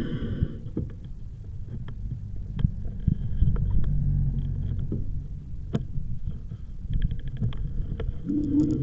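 Riding a bicycle on a rough path: a steady low rumble of tyre and wind noise, with scattered sharp clicks and knocks from bumps.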